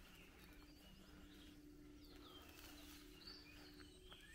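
Near silence: faint scattered bird chirps, with a faint steady low hum underneath.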